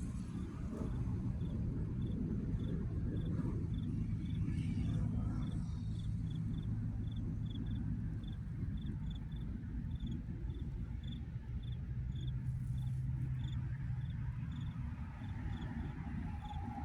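A cricket chirping steadily, about two chirps a second, over a steady low rumble.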